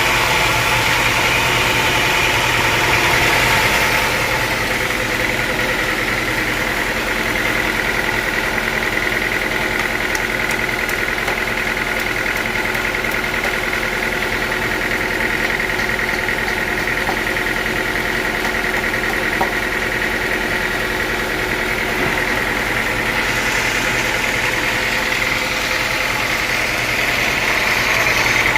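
Sawmill saw running steadily with a constant high whine. The sound turns hissier in the first few seconds and again from about five seconds before the end.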